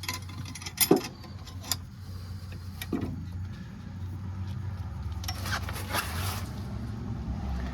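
An open-end wrench turning a C-clamp screw to compress a brake caliper piston: a few sharp metal clicks, then a longer scraping rasp about five seconds in, over a steady low hum.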